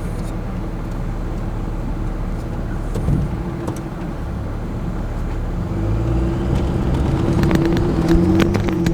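Cummins diesel engine of a pickup running under load as it pulls a trailer up a steep trail. It runs steadily, then revs harder and louder about six seconds in, with a few sharp knocks near the end.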